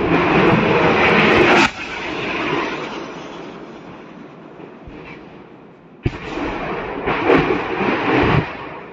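Secondary explosions of a burning ammunition depot: a rolling, rumbling roar that cuts off suddenly about two seconds in, a fainter rumble fading away, then a sharp new blast about six seconds in followed by more cracks.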